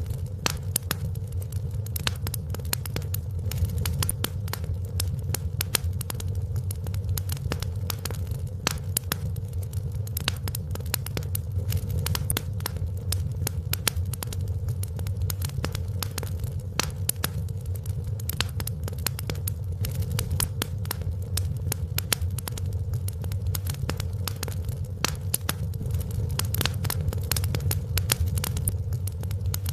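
Wood fire in a fireplace crackling: many sharp, irregular pops and snaps over a steady low rumble.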